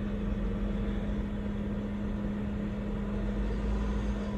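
Jeep engine running steadily at low speed while crawling an off-road trail obstacle: a constant hum over a low rumble.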